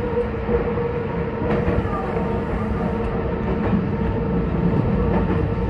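Meitetsu 2200 series electric multiple unit running at speed, heard from inside the driver's cab: a steady rumble of wheels on rail with a constant whine held at one pitch and a few faint clicks.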